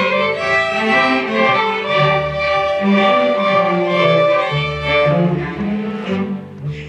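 String orchestra playing, with violins, cellos and basses sounding sustained bowed notes together, and a brief break near the end before the low strings come back in.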